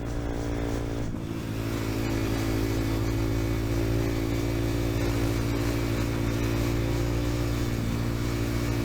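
Dirt bike engine running at a steady, even pitch, with a brief dip about a second in.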